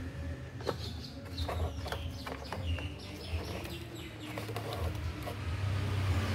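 Birds chirping, with many small scattered clicks and taps over a steady low hum.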